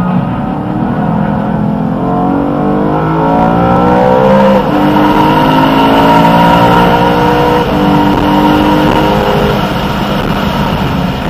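BMW E92 M3's V8 accelerating hard, heard from inside the cabin. The pitch climbs through the gears, dropping suddenly at two upshifts, and the engine note falls away near the end.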